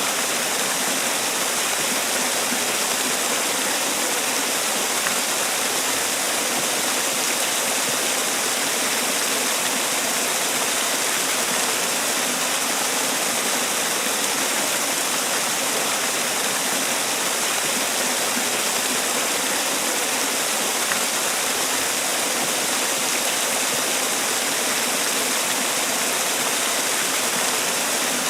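Man-made waterfall: a steady, unbroken rush of falling water.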